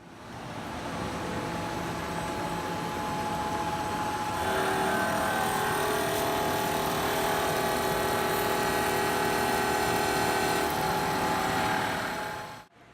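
VIWA CNC milling machine running its program: a steady machine noise builds up over the first second, with several steady whining tones joining about four and a half seconds in, then cuts off abruptly near the end.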